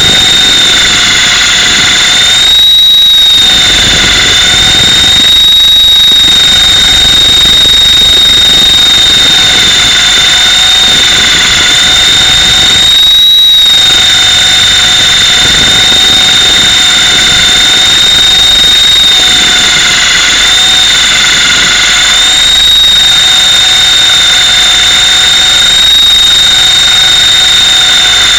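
Mini Titan E325 electric RC helicopter heard close up: a loud, steady, high-pitched whine from its electric motor and drivetrain over a rushing rotor noise. Twice the whine lifts slightly while the rushing briefly drops away.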